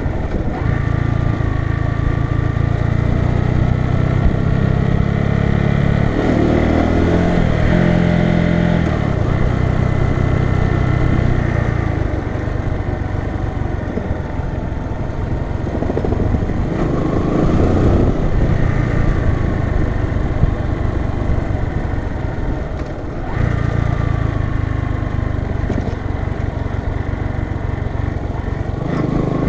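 Bajaj Boxer BM 150's single-cylinder four-stroke engine running while the bike is ridden, its note shifting up and down with throttle and gear changes and easing off briefly about three-quarters of the way through before picking up again.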